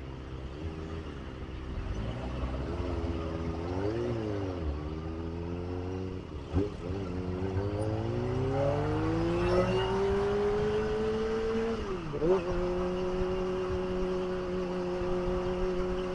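Kawasaki ZX25R's inline-four engine running under way: its pitch wavers up and down early on, climbs steadily for several seconds under acceleration, drops sharply at a gear change about twelve seconds in, then holds steady at cruising speed.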